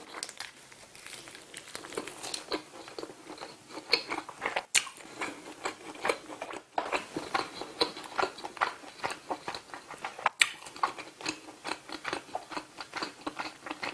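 Close-miked chewing and biting of grilled saury: a steady run of wet mouth clicks and smacks, with two sharper clicks about five and ten seconds in.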